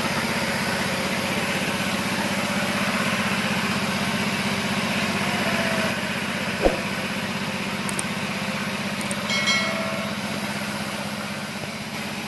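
A motor running steadily with a fast, even pulse, and one sharp click a little past halfway.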